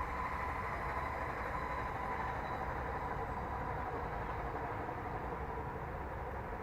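Steady background noise, an even hiss and rumble with a faint steady tone running through it.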